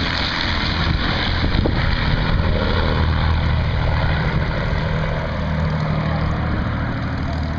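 An engine running steadily with a low, even drone and a broad rushing noise over it.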